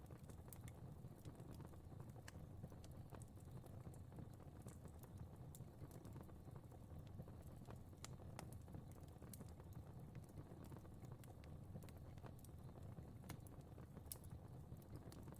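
Fire crackling softly: irregular small pops and snaps over a low, steady rumble of flames.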